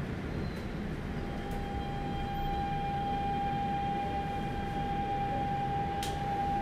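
Software-updated Daegu Metro Line 1 train running, heard inside the car: a steady rumble from the wheels and running gear, with a steady whine setting in about a second in and holding one pitch.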